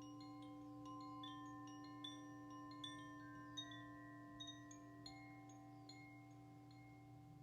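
Faint wind chimes tinkling at random over a steady drone of several held ringing tones.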